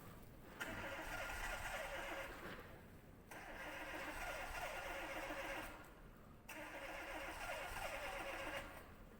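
Car's electric starter cranking the engine in three attempts of about two seconds each, with short pauses between, during a hard cold start; the engine does not catch.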